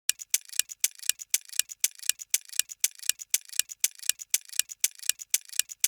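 Clock-like ticking sound effect of a quiz countdown timer: rapid, even ticks that run while the answer is awaited and stop just before it is given.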